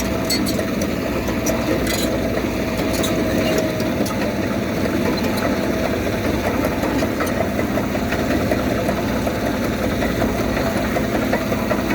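Heavy diesel engine of earthmoving machinery running steadily, with a few light clicks in the first few seconds.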